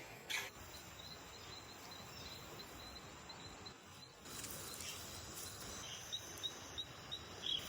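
Rainforest insects calling: a faint steady high-pitched drone with a run of short high chirps repeating about five times a second, fading midway and returning more slowly near the end. A couple of soft knocks sound near the start and near the end.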